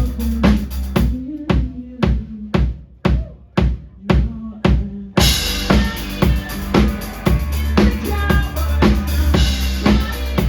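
Live rock band playing loudly, driven by a steady drum kit beat of bass drum and snare. About a second in, the other instruments drop out so the drums play nearly alone, and about five seconds in the full band crashes back in.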